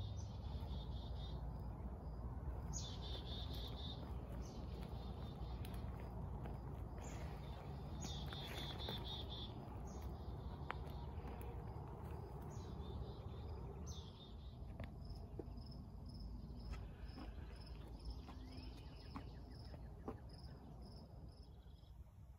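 Songbirds singing outdoors: about a second-long high chirping trills repeated every few seconds, then a steady run of short high notes about two a second, over a low rumble.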